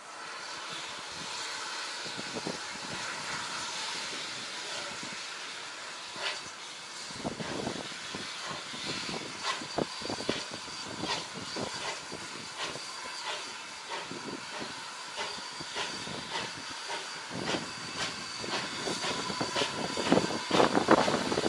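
A train drawing near with a steady hiss, and a growing run of clicks and knocks from the wheels that gets louder towards the end.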